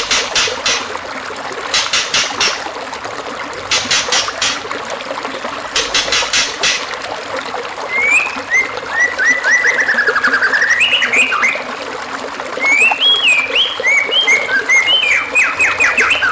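Recorded songbird calls over a steady trickle of running water: a dense rattling chirp repeated about every two seconds, then from about eight seconds in a varied run of whistled notes sliding up and down.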